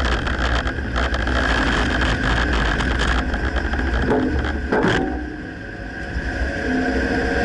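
Dodge Ram pickup on the move: a steady low engine and road drone with a run of knocks and rattles through the first few seconds, the kind of front-end clunking the owner cannot pinpoint. Loudness dips briefly just past the middle.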